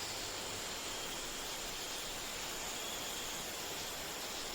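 Steady natural outdoor ambience: an even hiss with faint, constant high-pitched insect tones.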